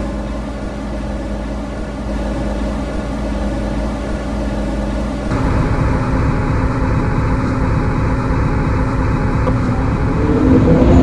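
MTR M-Train electric multiple unit humming steadily at standstill. About five seconds in the hum steps up louder. Near the end the traction motors' whine begins to rise as the train starts to pull away.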